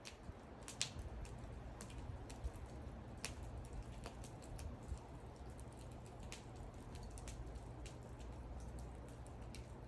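Wood fire crackling: irregular sharp pops and snaps, one louder snap a little under a second in, over a low steady rumble of the burning fire.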